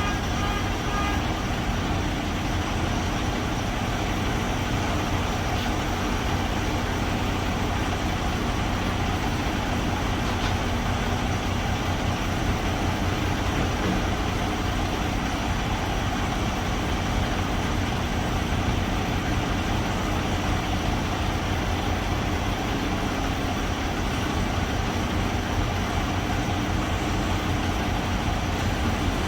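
Semi truck's diesel engine running steadily with an even low throb, unchanging in pitch and level.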